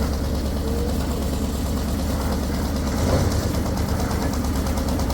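A heavy engine running steadily with a low, even chug.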